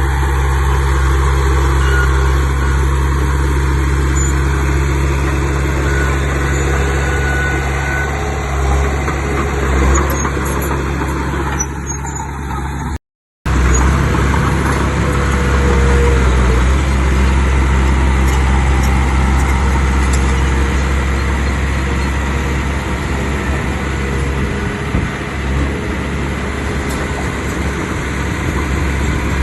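Diesel engine of heavy earthmoving machinery running steadily with a strong low drone, broken by a sudden brief gap about thirteen seconds in.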